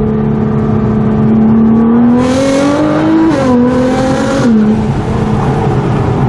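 Nissan GT-R R35's twin-turbo V6 through an Armytrix titanium valvetronic exhaust with the valves open, heard from inside the car. The engine note holds steady, climbs under acceleration with a rushing hiss, drops sharply about three seconds in, climbs briefly and drops again about four and a half seconds in.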